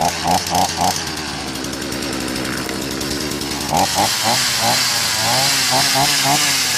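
Berala BL-29X two-stroke chainsaw engine running unevenly as it begins to catch after a hard start, its fuel tank and carburettor drained. Its speed rises and falls, with short pulses in the note, about three a second, near the start and again after about four seconds.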